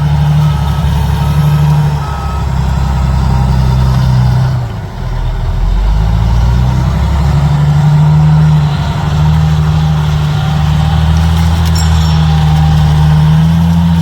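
A large vehicle engine running steadily with a deep hum, dipping briefly about five seconds in. A repeating electronic beep sounds over it and stops about two seconds in.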